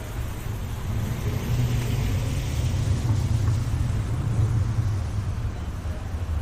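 Low rumble of city street ambience, growing louder about a second in and easing near the end.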